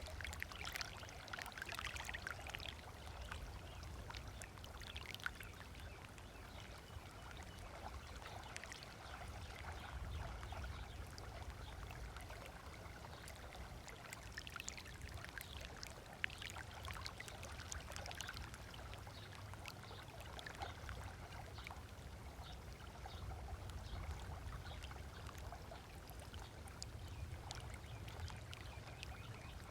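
Small waves lapping and splashing irregularly on a sandy shore, over a steady low rumble.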